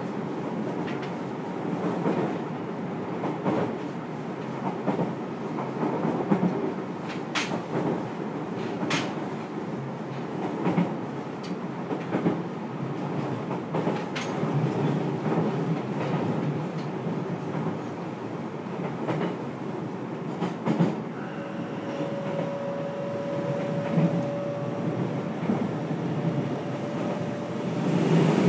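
Running noise inside the motor car of a JR Kyushu 303 series electric train: steady wheel-on-rail noise with scattered sharp clicks from the track. A faint steady tone comes in about two-thirds of the way through, and the noise swells right at the end.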